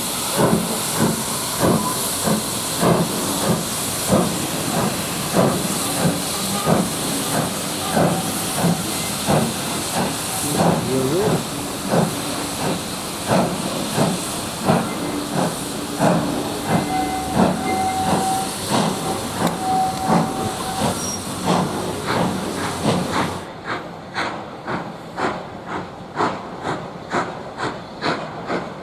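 Steam locomotive working, its exhaust beating in a steady rhythm that quickens slightly, under loud hissing steam. The hiss stops abruptly about three-quarters of the way in, leaving the exhaust beats clearer.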